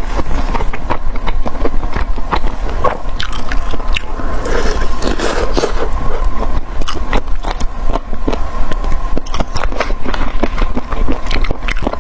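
Close-miked biting and chewing of crispy fried food, with many short crunches, irregularly spaced.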